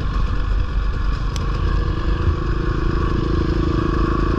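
Dirt bike engine running, its note settling into a steady tone about halfway through.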